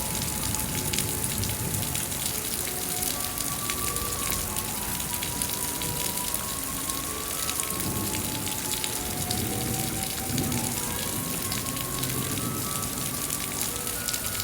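Steady rain falling, an even hiss of many fine drops, with a slow, soft melody of single held notes over it.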